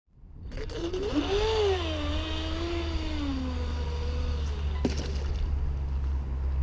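RC speedboat's brushless electric motor whining, its pitch rising and then sliding down as the throttle changes, over a steady low rumble. A sharp click comes near the end.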